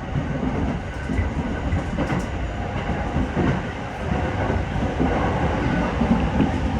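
Sobu Line local commuter train running along the line, heard from inside the car: a steady rumble of wheels on rail with light clatter.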